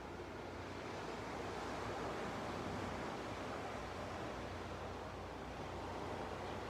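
Ocean surf on a beach: a steady wash of small waves, swelling slightly about two seconds in.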